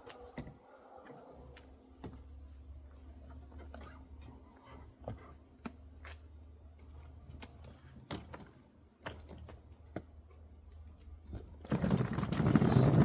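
Steady high-pitched insect trill, like crickets, with scattered light knocks and clicks from the rolling case being handled. Near the end a much louder, dense rumbling noise starts suddenly.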